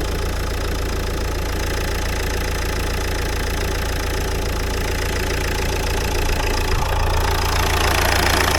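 Nissan 1.5 dCi K9K four-cylinder turbodiesel idling steadily with a low rumble, growing a little louder near the end.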